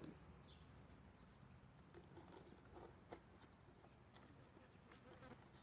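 Near silence, with a few faint, scattered clicks and taps of seashells being handled and pressed onto a bottle.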